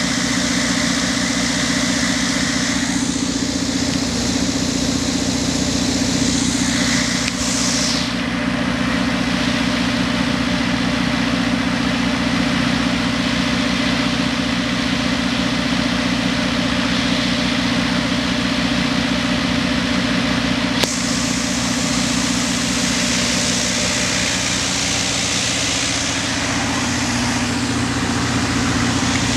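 Generator engine running steadily with an even, pulsing hum, growing louder near the end.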